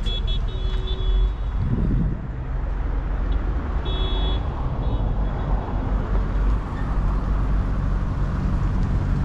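Road traffic and engine rumble, a steady low roar. A short run of high beeping tones sounds near the start and again about four seconds in.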